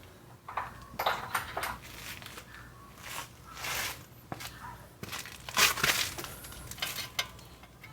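Metal hand tools and parts clattering and clinking in a series of irregular knocks and scrapes, as in sorting through tools for the right bit.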